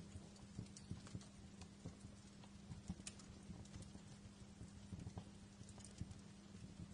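Wood fire crackling: irregular small pops and snaps, a few sharper ones standing out, over a low steady rumble and hum.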